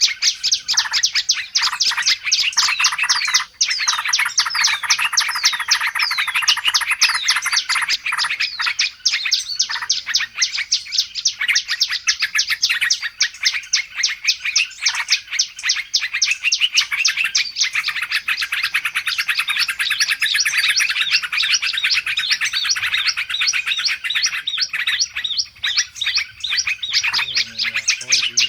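Dense chorus of many small songbirds chirping and twittering rapidly without a break: a noisy bird-lure recording used to call small wild birds in.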